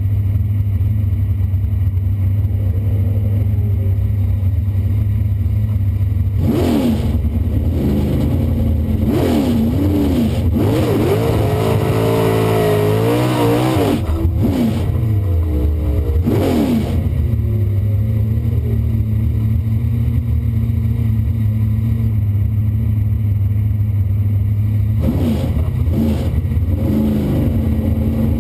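1968 Camaro drag car's small-block Chevrolet V8 idling, heard from inside the cabin, revved in short blips several times, with a longer rev held for about three seconds near the middle.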